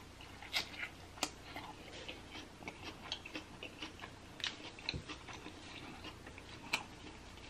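A person chewing a mouthful of crisp birria quesadilla: soft wet mouth clicks and small crunches, with a few sharper clicks scattered through.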